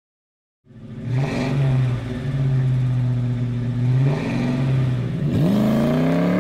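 Car engine revving sound effect. It starts about half a second in and holds a steady rev for several seconds, then dips sharply about five seconds in and climbs steadily in pitch as the car accelerates.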